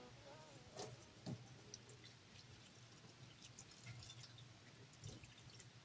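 Near silence: a low steady hum with a few faint scattered ticks, as the last sung note of the music fades out at the start.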